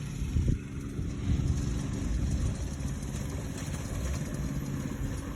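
Go-kart's small engine running steadily at low revs.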